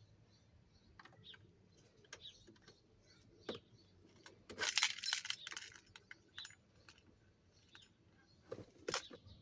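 Keys jangling in a clatter of small metallic clinks, loudest in a burst about halfway through and again briefly near the end, with scattered light clicks between.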